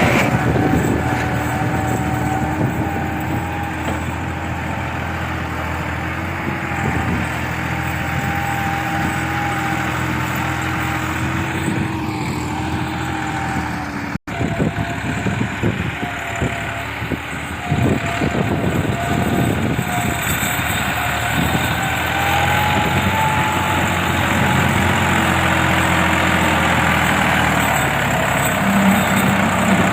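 Massey Ferguson 260 tractor's diesel engine running steadily, with a faint drifting whine over the engine note. The sound cuts out for an instant about halfway through, and scattered knocks and clatter follow in the second half.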